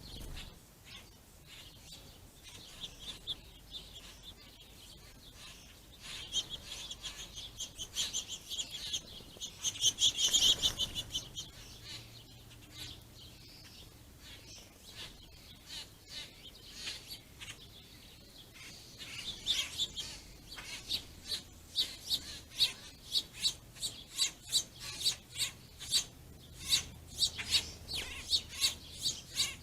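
Small songbirds chirping, with a dense cluster of calls about ten seconds in and quick, sharp chirps coming a few per second through the last third.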